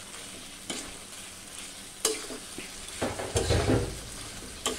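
Goat tripe and chopped onion frying in a kadai with a steady sizzle. A spatula clicks against the pan about two seconds in, then stirs and scrapes through the food over the last couple of seconds.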